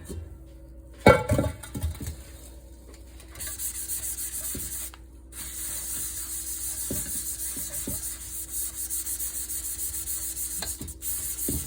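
A loud clatter of cookware about a second in, then steady back-and-forth scrubbing of a pan, which pauses briefly about five seconds in and starts again.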